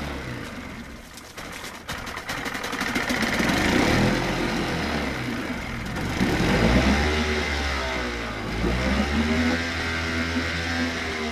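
Evinrude 25 hp commercial outboard, a two-stroke twin, running and being revved up and down several times: the engine note dips low and uneven about a second in, then climbs and falls repeatedly.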